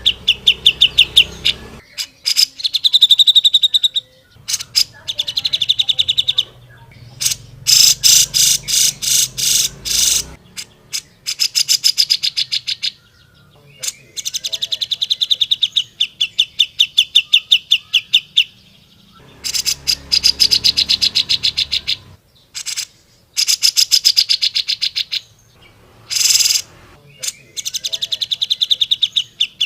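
Grey-cheeked bulbul (cucak jenggot) singing loud, fast trills: runs of rapid, evenly repeated high notes lasting a few seconds each, broken by short pauses.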